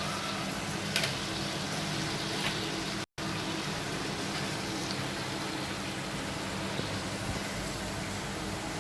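Chicken kadai with butter sizzling in a kadai over the flame: a steady hiss, with a light tick about a second in.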